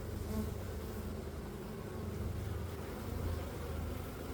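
Honeybees buzzing steadily in a low hum around an opened hive as frames are handled and guard bees fly about.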